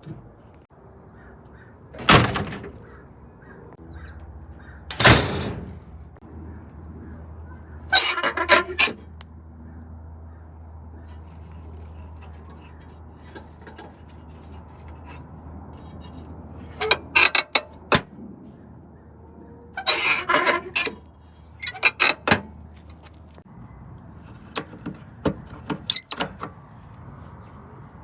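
The heavy metal doors of a 1950 Buick clunking and rattling as they are opened and shut. There are single hard knocks early on, then several clattering latch-and-slam clusters, with a faint steady low hum between them.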